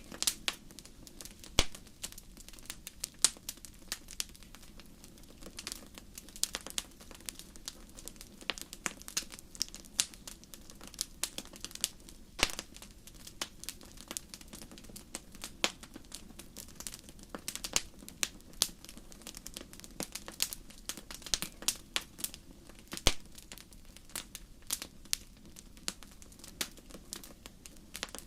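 Campfire crackling: irregular sharp pops and snaps, several a second with a few louder cracks now and then, over a faint steady low rush of the flames.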